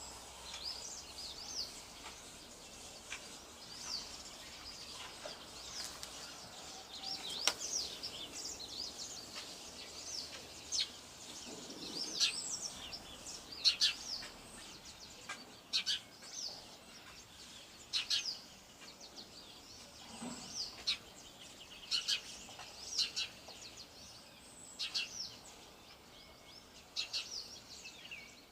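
Several small birds chirping and calling, with many short chirps and twittering notes coming in quick succession over a faint steady outdoor background noise.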